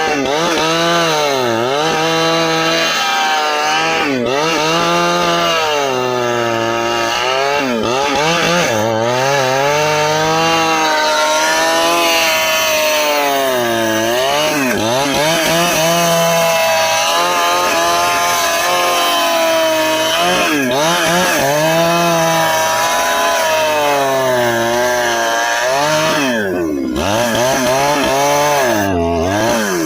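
Stihl chainsaw cutting through a dry ipê log, straining in the hard wood: the engine pitch sags again and again as the chain bogs under load and climbs back each time.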